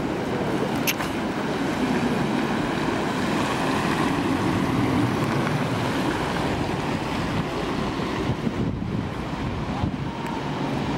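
X10 electric commuter train approaching the platform: a steady rumbling noise, with a brief sharp click about a second in.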